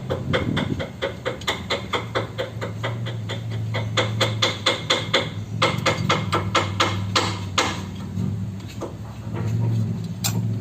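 Rapid, even hammer strikes, about four to five blows a second, thinning out to scattered blows in the second half, over a steady low hum.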